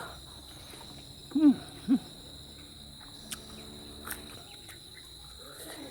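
Steady high-pitched chirring of crickets, with two short low hoot-like hums about a second and a half in and two faint clicks later.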